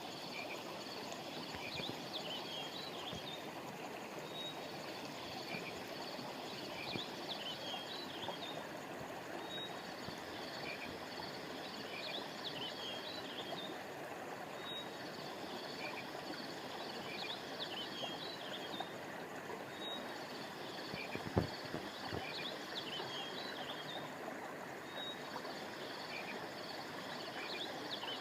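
Steady flowing of a river or stream, with clusters of high-pitched chirping calls that repeat about every five seconds. A single low thump sounds about two-thirds of the way through.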